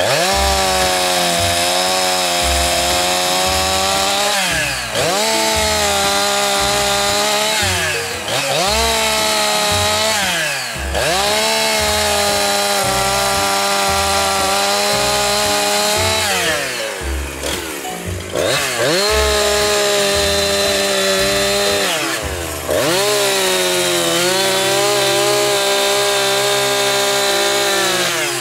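Two-stroke chainsaw running at high revs as it cuts into a hedge stem low at its base for pleaching. Its engine note dips and climbs back about five times.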